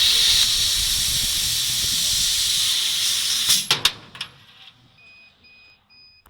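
Laser cutting head on a CO2 mixed laser cutter cutting metal plate, with a loud, steady hiss of assist gas and cutting. The hiss stops about halfway through with a few sharp clicks, followed by three short electronic beeps.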